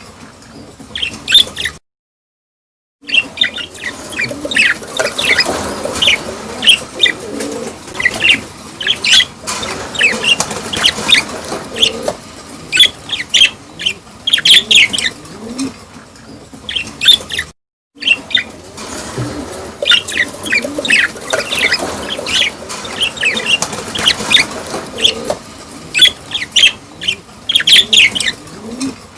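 A group of small cage birds chirping and chattering busily, with rapid short high chirps and some lower, sliding calls. The sound drops out completely twice, briefly about two seconds in and again around the middle.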